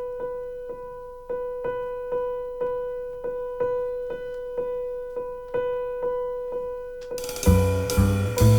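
Acoustic piano repeating one single note over and over in an uneven rhythm. About seven seconds in, a cymbal crash and the double bass and drum kit come in, and the full jazz trio plays.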